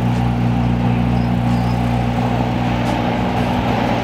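Supercar engines of a Porsche 992 GT3 RS and a McLaren Senna running at low speed as the cars creep forward, a steady low engine note with no revving.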